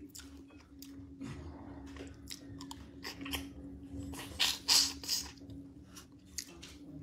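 Close-up eating sounds: chewing and biting on pieces of crab from a fisherman soup, with short crackling, crunching clicks. The loudest burst comes about four and a half seconds in, and a steady low hum runs underneath.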